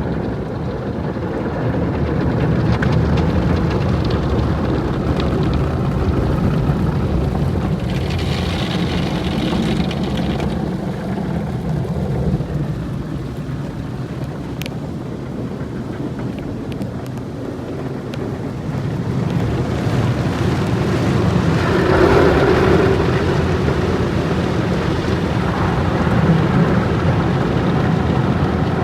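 Car wash running: a steady mix of water spray and machinery noise, with a brighter hiss about eight seconds in and a louder swell a little past twenty seconds.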